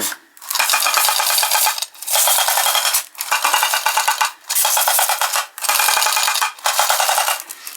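Argo tinplate mechanical toy police car's noise-making mechanism giving a rapid clicking rattle, meant to imitate a Tommy gun firing. It comes in about six bursts of roughly a second each as the car is pushed along in short strokes.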